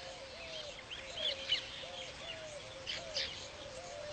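Weaver birds chirping at a nesting colony, with short sharp chirps, a few louder ones about a second and a half in and again around three seconds. Underneath, a low note repeats about twice a second throughout.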